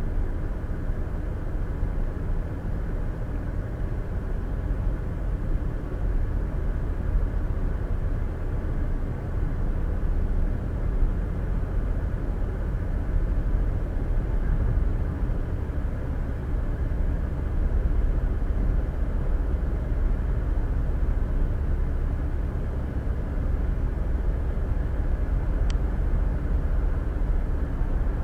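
Steady low rumble of a car driving at highway speed, tyre and road noise heard inside the cabin, with a brief faint tick near the end.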